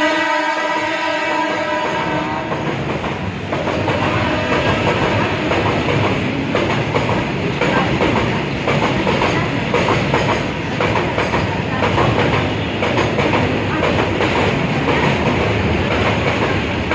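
Horn of a WAG-12 electric freight locomotive, a chord of several steady tones that ends about two seconds in. After it comes the steady rumble and clatter of a freight train's wheels running over the rail joints as the wagons pass.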